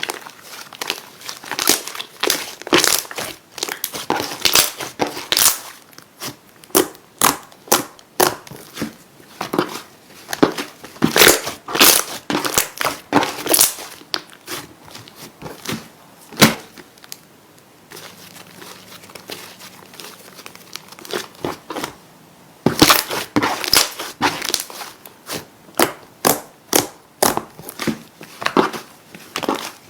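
Slime being squeezed and worked by hand, giving rapid runs of crackles, clicks and pops, with a quieter lull a little past the middle.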